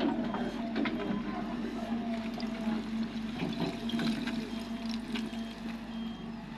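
Cat 330D excavator's diesel engine running with a steady hum, with scattered clicks and rattles of loose rock and soil being dug and dumped.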